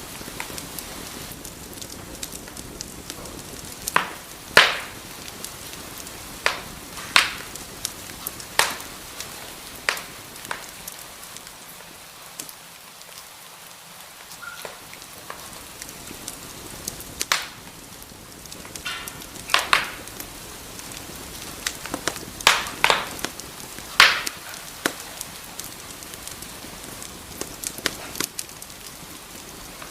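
Wood fire crackling in a fireplace: irregular sharp pops and snaps over a steady soft hiss, with the loudest snaps clustered a few seconds in and again in the last third.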